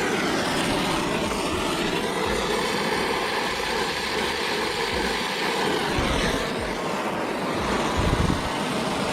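Brazing torch flame burning steadily on a copper refrigerant joint, a continuous loud rushing noise.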